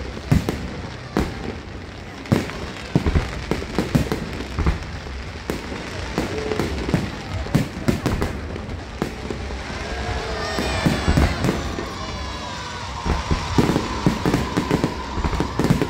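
Fireworks going off in quick succession, a dense run of bangs and pops. About ten seconds in, whistling tones that bend in pitch rise over the bangs.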